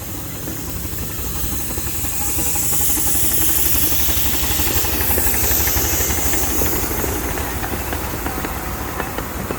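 Miniature railway train running on the track: a low rumble with rapid small clicks, and a hiss that swells for a few seconds in the middle and then fades.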